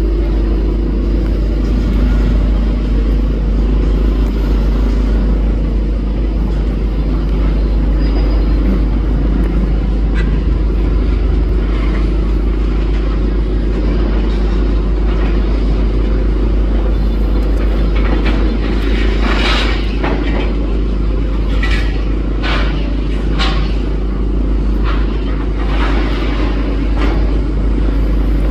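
Demolition excavator running with a steady low rumble, and in the second half a run of sharp crunches and clatters as material is pulled and broken.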